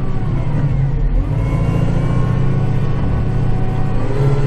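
Kubota cab tractor's diesel engine running steadily while clearing snow, heard from inside the cab, with a slight shift in engine pitch about a second in.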